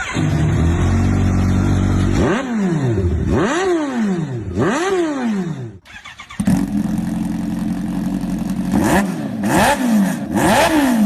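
Kawasaki motorcycle engines through their exhausts: a bike idles steadily, then is revved with three quick throttle blips, each rising and falling in pitch. After a brief break about six seconds in, a bike idles again and is blipped three more times near the end.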